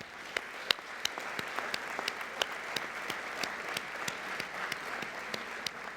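Audience applauding steadily, with a few single sharp claps standing out from the general clapping.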